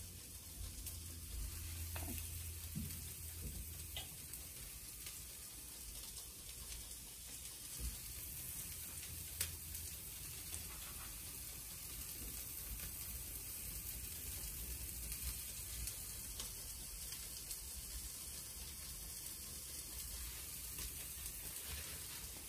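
Cauliflower rice and mushrooms sizzling steadily as they fry in a pan, with a few sharp clicks here and there.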